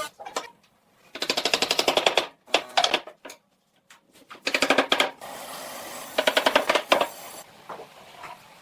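A power tool hammering rapidly in three bursts of about a second each, a fast rattle of roughly ten impacts a second, with a few lighter clicks near the end.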